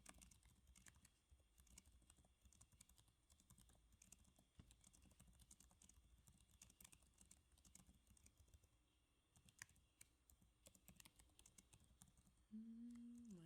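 Faint typing on a computer keyboard: quick, irregular key clicks. A voice comes in near the end.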